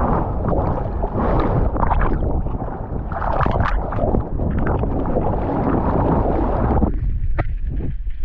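Loud rush of wind and churning water buffeting a surfer's body-mounted camera. It cuts off abruptly about seven seconds in, followed by a single sharp click.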